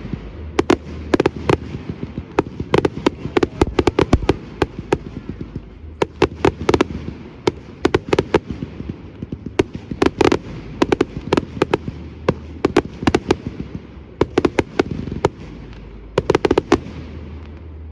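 Fireworks display: volley after volley of sharp bangs and crackles, many in quick succession, with a constant rumble between the volleys.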